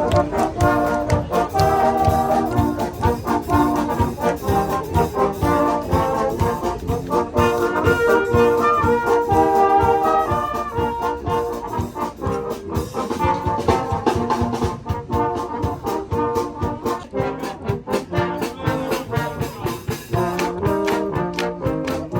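Brass band playing live: held, stepping melody notes over a steady drumbeat.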